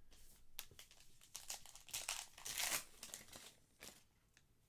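Trading card pack wrapper crinkling and tearing as a pack is opened by hand: a run of rustling bursts, loudest about two and a half seconds in, fading out near the end.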